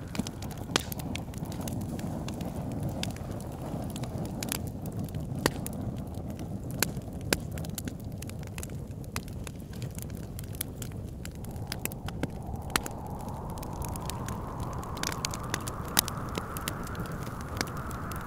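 Wood fire crackling with scattered sharp pops, over steady wind. The wind's whistling tone sinks in pitch over the first few seconds and climbs again from about twelve seconds in.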